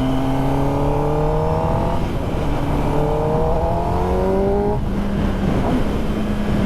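Kawasaki ZX-10R's inline-four engine pulling up through the gears. The pitch climbs steadily in each gear and drops at an upshift about two seconds in and again near five seconds, then holds nearly steady, over wind noise.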